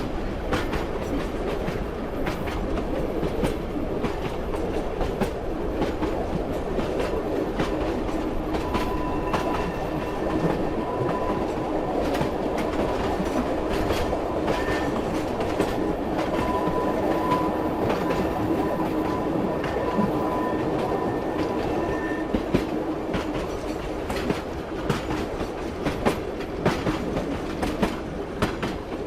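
A train running on the rails with a steady rumble and the clickety-clack of wheels over rail joints. Through the middle there is a faint high squeal from the wheels.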